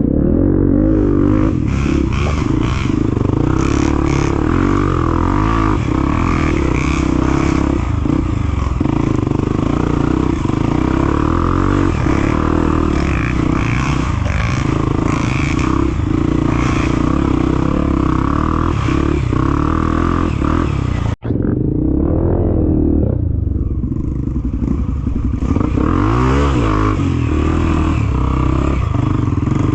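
Off-road trail motorcycle engine running close up, revving up and down as it rides over muddy ground. The sound drops out for an instant about 21 seconds in.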